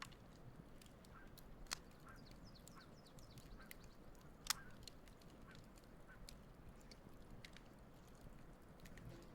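Wood campfire crackling softly, with two sharper pops about two and four and a half seconds in, and geese honking faintly in the background.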